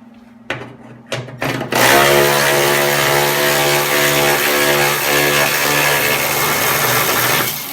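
A few clicks, then a power tool with a 13 mm socket starts about a second and a half in and runs steadily for about six seconds, backing out a hood bolt, before stopping near the end.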